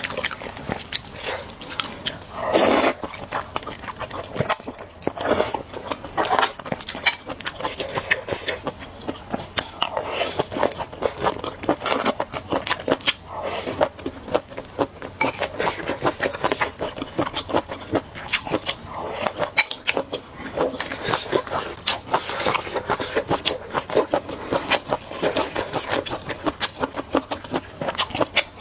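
Close-miked eating of spicy noodles: chewing and biting, with many small wet mouth clicks and a few louder bursts.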